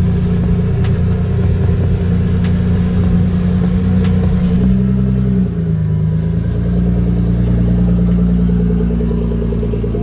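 Nissan GT-R R35's twin-turbo V6 running just after startup, at a raised idle with a scatter of sharp exhaust pops. About five and a half seconds in the revs drop, and it settles to a lower, steady idle.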